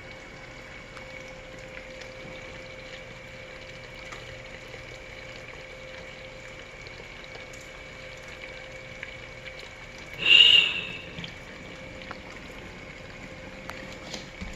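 Samsung DW80K5050 dishwasher running, with water circulating and a steady hum and high whine from the wash motor, broken about ten seconds in by one loud, brief whoosh. The noise comes from the wash motor: a failed shaft seal let water down the shaft and rusted its bearings until they began to seize.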